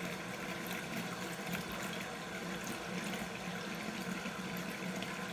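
Water running steadily from a faucet left on.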